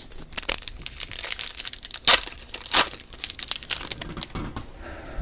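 Baseball card pack wrapper crinkling as the cards are handled: a dense run of quick, irregular crackles, with two sharper ones about two and three seconds in.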